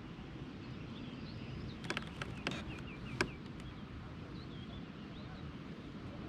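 Outdoor ambience on a lake: a steady low rumble with faint bird chirps, and a handful of sharp clicks about two to three seconds in.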